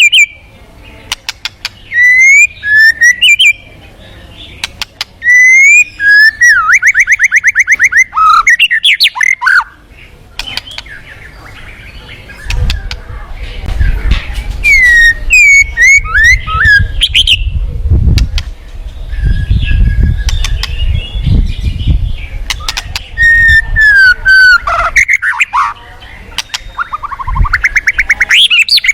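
White-rumped shama (murai batu) singing loud whistled phrases of rising and falling notes and rapid trills, one phrase every second or two. A low rumble runs under the song through the middle stretch.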